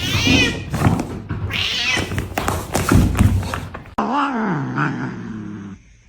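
Cats yowling and meowing, with several knocks and thuds in the first few seconds. After a cut about four seconds in comes one long, wavering meow that falls in pitch and stops short of the end.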